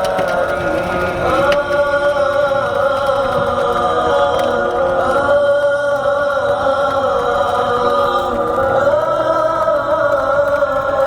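Chanting voices holding long, slowly wavering notes, with a steady low rumble beneath.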